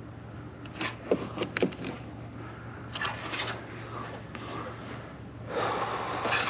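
Hands working on a car's wiring: a few sharp clicks about a second in, then scraping and rustling around three seconds and again louder near the end, over a steady low hum.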